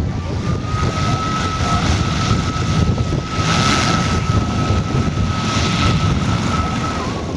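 Engine of a large-scale radio-controlled model warbird running in flight, a steady high whine held for several seconds with a swell around the middle as it passes. Wind noise on the microphone runs under it.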